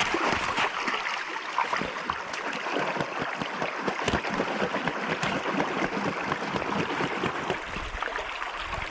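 River water rushing and splashing over stones in a shallow current: a steady, fairly loud rush with fine splashing texture.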